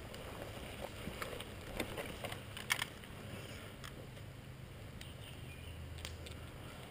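Steady low rumble of wind and movement on a helmet-mounted GoPro, with a few sharp clicks scattered through it; the loudest click comes near the middle.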